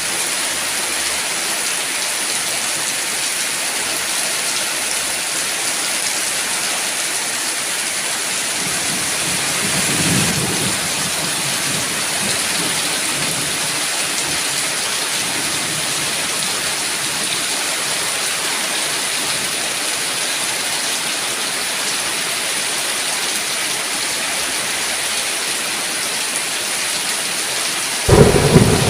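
Heavy rain falling steadily, with a low roll of thunder about a third of the way in and a sudden loud thunderclap near the end.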